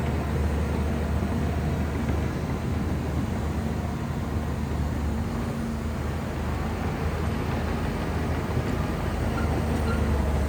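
Shantui bulldozer's diesel engine running steadily, a deep continuous drone as the machine works the mud and soil.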